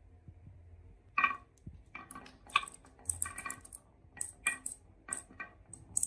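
Marbles clacking and rattling down a marble run track: a quick, irregular series of sharp clicks starting about a second in.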